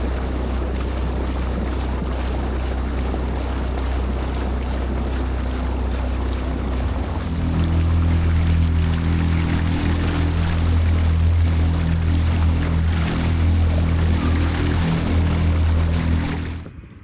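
Motorboat engine running steadily under the rush of water and wind. It gets louder and fuller about seven seconds in, then cuts off suddenly near the end.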